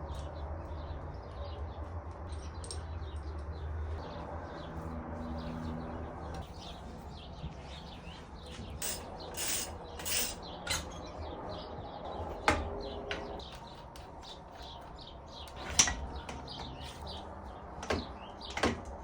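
Birds chirping, with a few sharp clicks or knocks standing out above them, the loudest about halfway through and near the end, over a low steady hum during the first few seconds.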